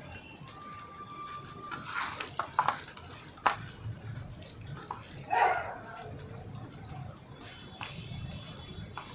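Water splashing and trickling, with a few sharp knocks and clicks.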